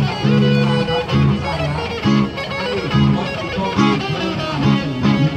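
Live busking music: a guitar-led instrumental passage of a song, with sustained pitched notes in a steady rhythm.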